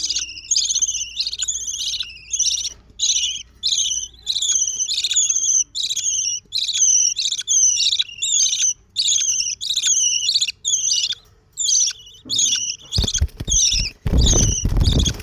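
Budgerigar chicks giving repeated rasping calls, a little more than one a second, each call sliding down in pitch. Low thumps and rumbling come in under the calls in the last couple of seconds.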